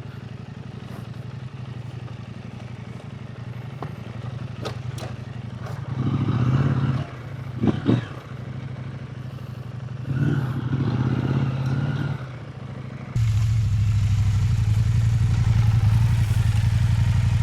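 Husqvarna Norden 901 parallel-twin engine running at low speed over rocky ground, with scattered clicks and clatter of stones. The throttle opens briefly twice near the middle, and the engine runs louder and steadier over the last few seconds.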